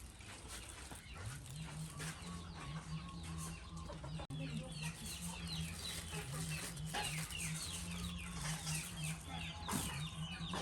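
Birds calling: many short, high, falling chirps that come thicker from about three seconds in.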